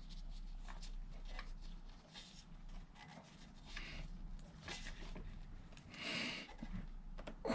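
Faint scattered clicks and short rubbing scrapes of a torque wrench and socket being fitted onto a new motorcycle oil filter.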